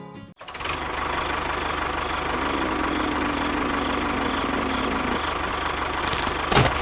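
Small engine of a mini tractor model running steadily with a fast, even beat. A single sharp knock sounds near the end.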